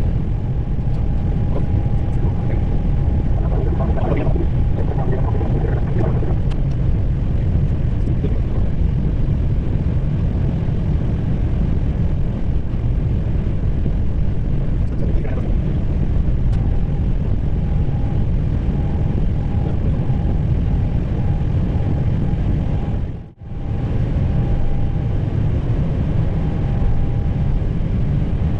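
Steady cockpit noise of an Airbus A320 taxiing, its engines at idle, a low rumble with a faint steady hum that comes and goes. The sound cuts out for a moment about 23 seconds in.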